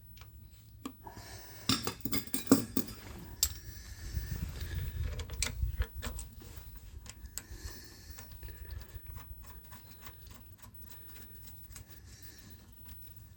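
Metal clinking and clatter of steel machine parts being handled and fitted as a thrust bearing goes back into a shaper's drive. A cluster of sharp clinks comes about two seconds in, then a low rumble of handling, and lighter scattered ticks to follow.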